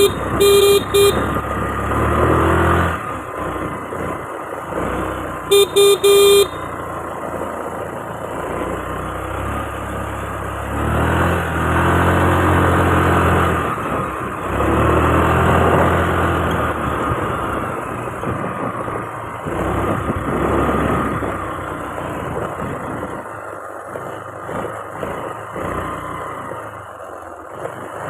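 A vehicle horn gives quick strings of short beeps near the start and again about six seconds in, over steady motor-vehicle engine and road noise. Around halfway, the engine noise swells louder twice.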